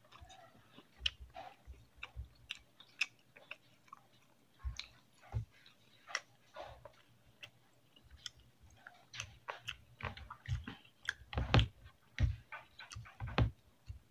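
A person chewing food close to the microphone: irregular short, moist mouth clicks, with a few louder low knocks a little past halfway.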